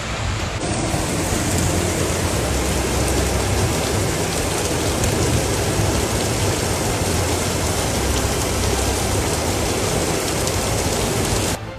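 Heavy rain pouring down hard, a dense steady hiss of downpour. It cuts off abruptly near the end.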